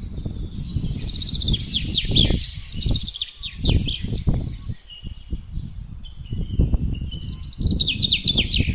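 Wind gusting in a low, uneven rumble, with songbirds singing over it: a rapid trill of quick down-slurred notes in the first couple of seconds, another near the end, and scattered chirps in between.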